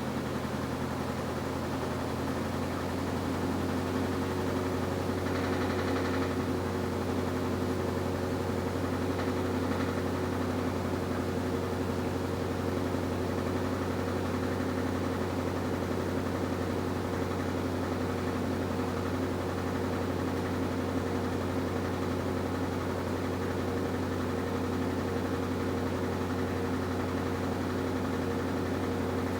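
Washing machine motor running with a steady hum, getting a little louder over the first few seconds.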